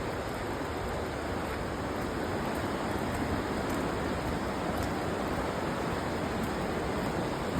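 Steady rushing of a fast-flowing river, an even roar of water.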